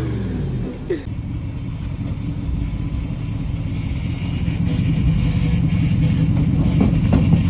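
Squatted pickup truck's engine running at a steady idle with a low exhaust rumble, with a brief dip about a second in.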